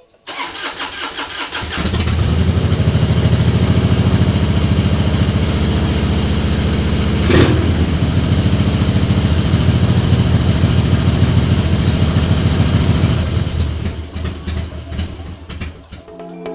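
Harley-Davidson Twin Cam 88 V-twin cranking on the starter for a second or so, then catching and running with a steady pulsing idle, with one brief louder burst about seven seconds in. It is the freshly rebuilt carburettor's first run. The engine cuts off near the end.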